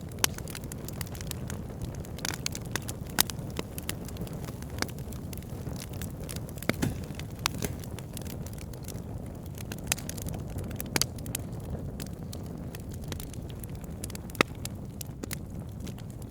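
Wood fire burning, logs crackling with a steady low rumble of flame and irregular sharp pops, a few of them louder than the rest.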